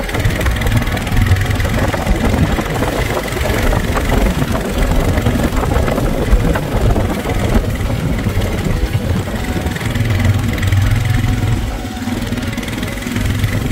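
Royal Enfield Himalayan 450 motorcycle engine running, a loud, steady rumble with no break.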